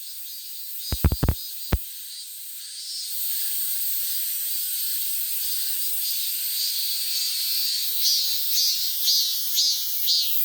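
Cicadas singing in a steady high-pitched buzz. About eight seconds in, one call breaks into a pulsing rhythm of about two pulses a second. Four sharp knocks sound about a second in.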